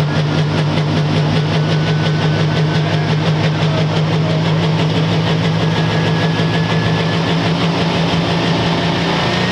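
Dual-fuel diesel pulling tractor engine running steadily at a loud idle, its firing pulses even and rapid. A faint high whine creeps slowly upward in pitch.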